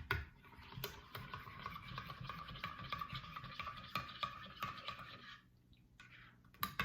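Hot chocolate being stirred as Abuelita chocolate is mixed into milk and water: a steady swishing scrape with small clicks from the utensil. The stirring stops a little past five seconds in.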